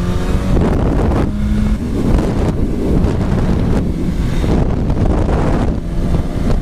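Heavy wind rushing over a camera microphone on a moving BMW S1000RR motorcycle. The engine note comes through in places, rising briefly near the start.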